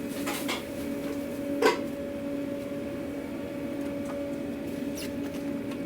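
Steady hum of food-truck kitchen equipment with two clear tones, under a few light clacks of takeout containers and utensils being handled, the sharpest about a second and a half in.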